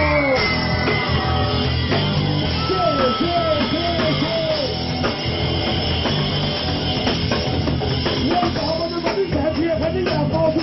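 Live rock band playing an upbeat song, with drum kit and bass and a bending melodic line over them.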